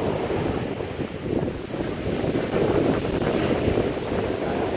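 Strong hurricane wind buffeting the microphone in a steady low rumble, with ocean surf washing in underneath.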